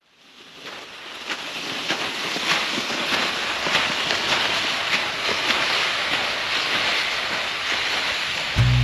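Campfire crackling, fading in: a steady hiss of burning wood with irregular sharp pops and snaps. Music comes in at the very end.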